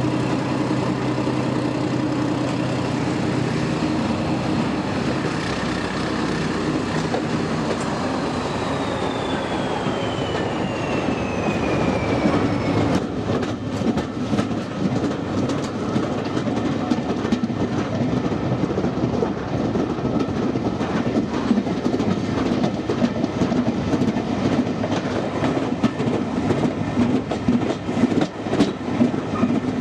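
Diesel-hauled train passing: a steady engine drone with a high whine that slides down in pitch, then, from about thirteen seconds in, the wheels clattering continuously over rail joints as the train rolls by.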